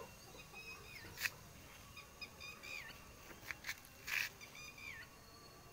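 Small birds chirping repeatedly in short, hooked calls, with a few sharp clicks and a brief rustle about four seconds in.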